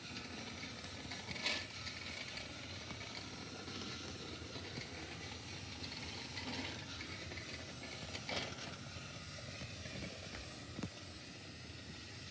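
Small battery-powered toy train running with a faint, steady whirring hiss, and two sharp clicks, about a second and a half in and again near the eight-second mark.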